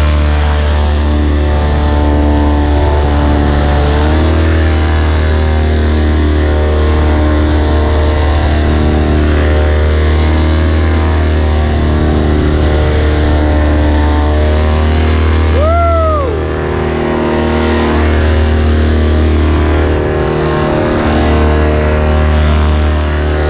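Paramotor engine and propeller running steadily under power, easing off briefly twice in the second half. About two-thirds of the way through, a short whistle-like tone rises and falls over it.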